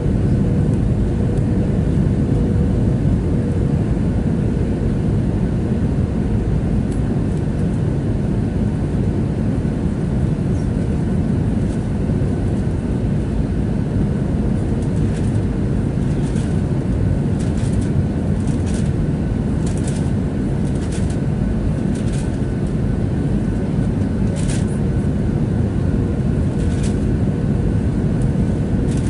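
Steady engine and airflow noise inside the cabin of a Boeing 737-700 with its CFM56-7B turbofans, carrying a steady hum. Scattered light clicks or rattles come in over the second half.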